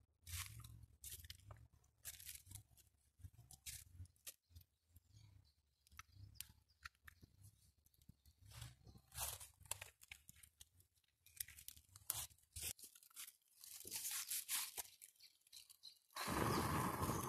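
Faint crunching, snapping and tearing of damp twigs and kindling being broken and handled for a campfire, with a louder rush of noise about a second long near the end.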